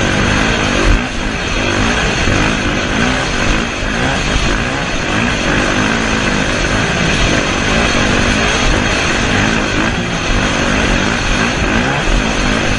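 Motocross bike engines running loud and rough, their pitch rising and falling over and over as the throttle is worked.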